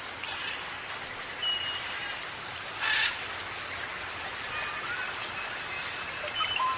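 Steady rain-like hiss with scattered bird calls over it: a short whistle about one and a half seconds in, a brief louder chirp about three seconds in, and thin held whistles and short rising whistles in the second half.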